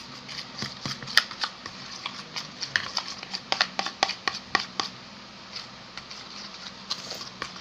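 A slime mixture of white glue being stirred in a container: irregular clicks and taps of the stirrer against the container, thinning out after about five seconds.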